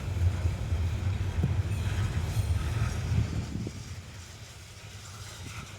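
Coal train cars rolling past, a low rumble with a few faint knocks, easing off somewhat after about three and a half seconds.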